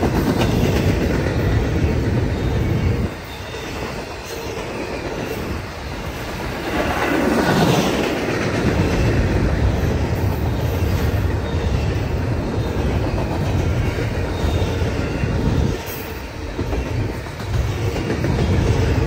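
Norfolk Southern freight train's cars rolling past: a continuous rumble of steel wheels on rail that dips briefly twice, with a short swell about seven seconds in.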